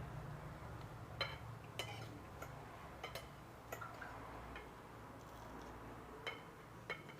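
Cutlery clicking and clinking against plates during a meal, about eight light, irregular ticks over a faint low hum.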